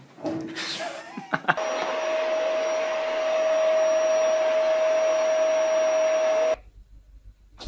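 An electric motor running steadily with a constant whine over a hiss, starting about a second and a half in and cutting off suddenly near the end.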